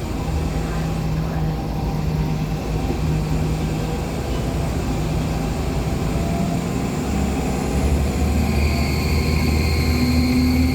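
On-board running noise of a Nova Bus LFS Artic hybrid with a Cummins ISL9 diesel and Allison H50 EP hybrid drive, a steady low drone. About three-quarters of the way through the rumble grows as the bus pulls harder, and a thin high whine comes in and slowly rises, the bus's turbo noise.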